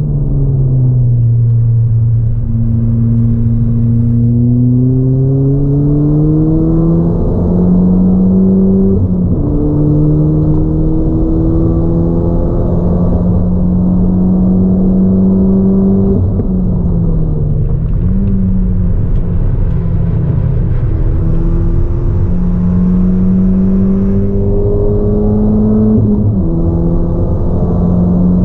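Ford Fiesta ST180's 1.6-litre turbocharged four-cylinder engine, fitted with a 3-inch Gravity Performance exhaust and an ITG intake, heard from inside the cabin as the car accelerates. The engine note climbs steadily and drops sharply at each upshift, three times, over a low rumble.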